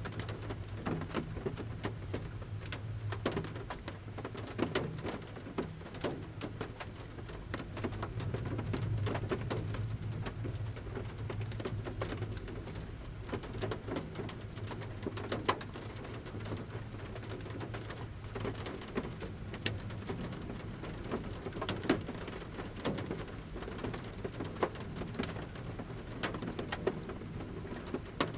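Large raindrops from a forest canopy pattering at irregular intervals on the roof of a camper van, heard from inside the van, with a low steady hum underneath.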